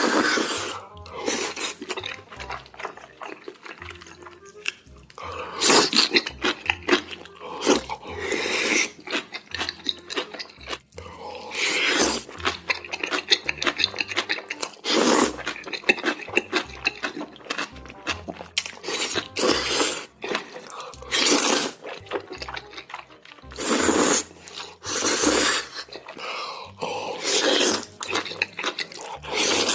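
Close-miked mukbang eating sounds: wet slurping and chewing in irregular bursts, over background music.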